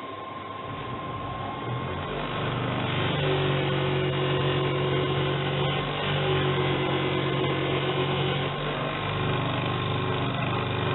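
Vortex belt sander's motor building up to speed over the first two to three seconds, then running steadily with a low hum. This is the stage where the burr is buffed off a freshly sharpened knife edge.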